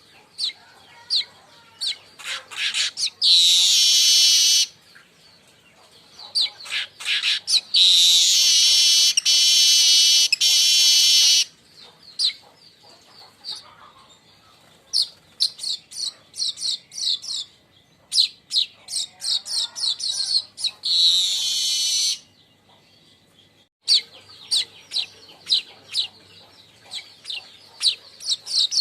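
Manyar weaver bird chattering: quick series of short, sharp high chips, broken three times by long buzzing, wheezy song phrases, the longest lasting about four seconds near the middle.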